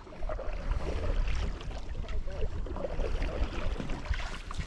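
Canoe being paddled on a lake: irregular splashing and lapping of water, over a steady low rumble.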